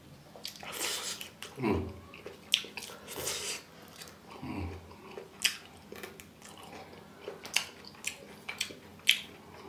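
Close-up mouth sounds of eating: biting and chewing raw green herb sprigs and hand-balled rice, with many sharp, wet crunching clicks. There are two short, low grunting vocal sounds about two seconds and five seconds in.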